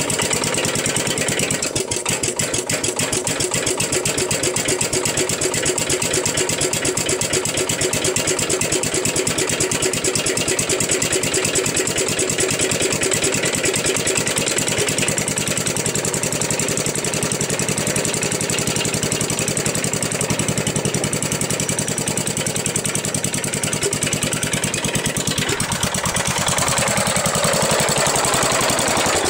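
Gravely Commercial 12's 12-horsepower engine running after a cold start, then slowing with a falling pitch near the end as it starts to die. It won't stay running because the carburetor still needs adjusting.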